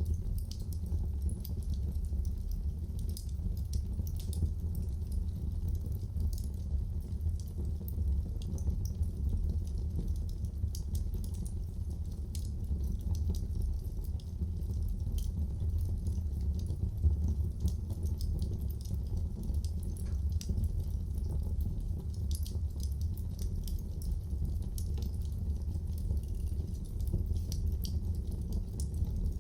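Wood fire burning in a fireplace: a steady low rumble with many small crackles and pops scattered through it.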